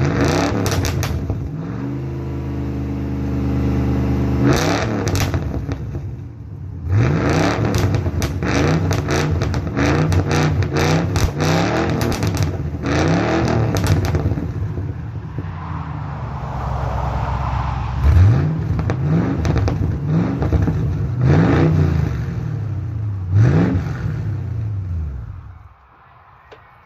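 Ford Mustang 5.0-litre V8 with no mufflers, revving up and down repeatedly, its exhaust popping and crackling as the revs fall. The engine sound drops away sharply near the end.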